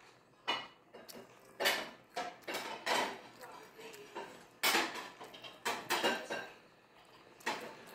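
A child chewing crisp iceberg lettuce: a run of about eight sharp crunches, irregularly spaced.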